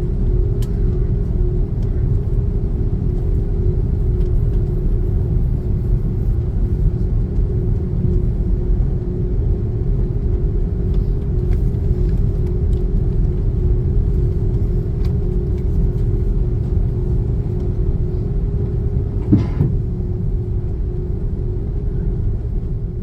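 Airbus A330-300 cabin noise: a steady low rumble with a constant hum over it, and a few faint clicks. A brief knock comes about 19 seconds in.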